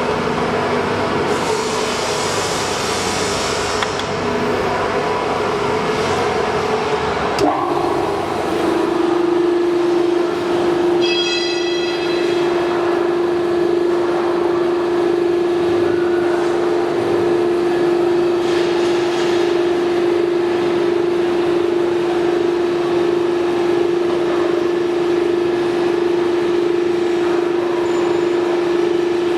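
CNC press brake running: a mixed machine noise, then a sharp click about seven seconds in, after which a steady machine hum sets in and holds. A short ringing tone sounds briefly a few seconds after the hum starts.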